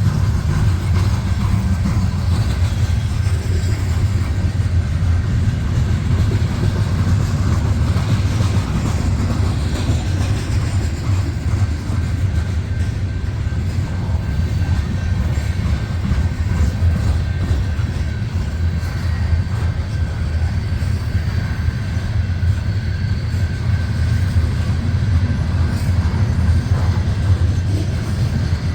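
Loaded coal hopper cars of a long freight train rolling past: a steady, heavy rumble of steel wheels on rail.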